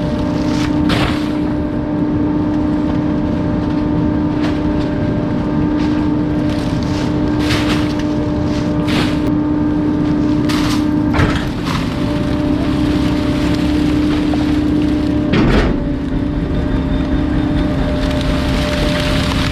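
Bulky-waste garbage truck compacting its load: a steady hum from the truck runs throughout, and every few seconds items crack and splinter as they are crushed, with the loudest snap about fifteen seconds in.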